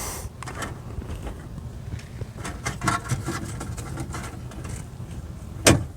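Small clicks and knocks of car door latch parts and cable clips being handled, over a low steady hum, with one sharp click near the end.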